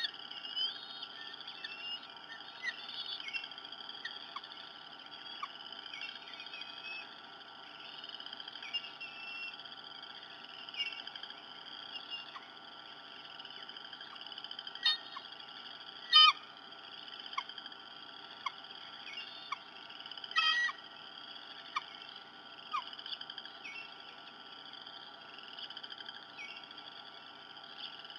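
Birds chirping: a continuous thin, high twittering with a few louder, sharper chirps around the middle.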